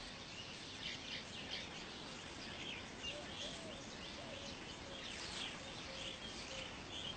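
Weaver birds chirping faintly in scattered short calls over a steady background hiss, with a run of soft lower notes in the second half.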